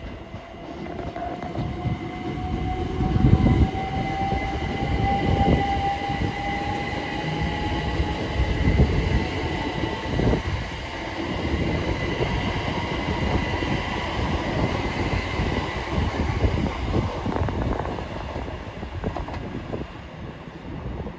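A train moving on the track: a heavy rumble of wheels with a few louder thumps, under a whine that rises slowly in pitch through the first half and then holds steady.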